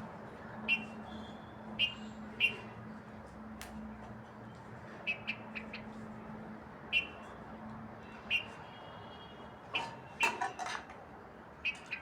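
Short bird chirps, one every second or so, over a steady low hum, with a quick run of clicks and clatter about ten seconds in.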